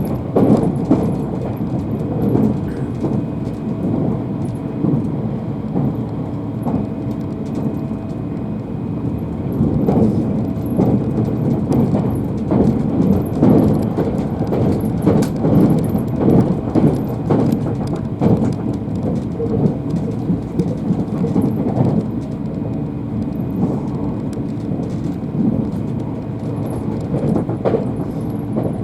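Train running noise inside a passenger carriage: a steady low rumble with many quick clicks and knocks from the wheels on the track.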